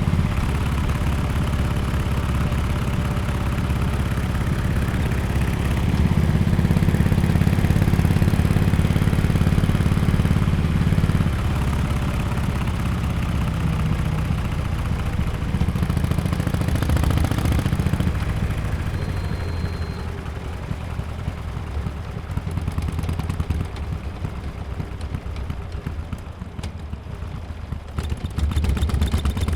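Harley-Davidson XL1200X Forty-Eight's air-cooled 1200 cc V-twin running through an aftermarket Bell's Performance muffler while riding. The exhaust note is louder from about six to eleven seconds in, drops back and settles lower and quieter in the second half, and picks up again near the end.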